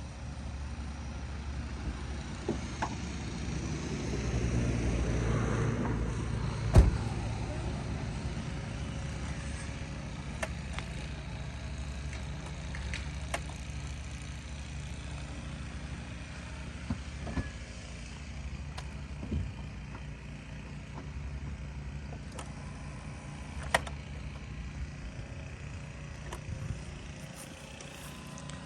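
A motor vehicle engine runs with a steady low hum, swelling for a few seconds near the start. One sharp knock about seven seconds in, and a few lighter clicks scattered later.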